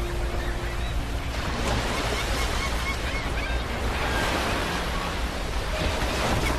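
Ocean surf: waves washing in on a beach, a steady rushing sound with a low rumble underneath.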